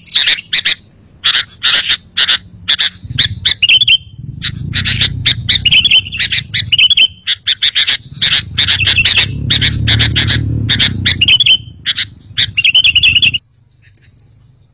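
Sooty-headed bulbul (kutilang) song: a fast run of short, sharp, chattering chirps that stops abruptly near the end. A low rumble runs underneath for much of it.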